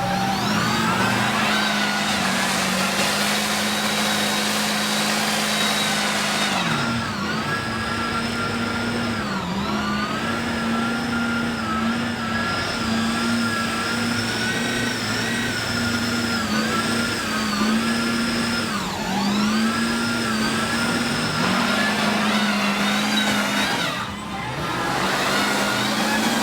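Mega truck engine held at high revs, its pitch staying high with brief dips every second or two before climbing back.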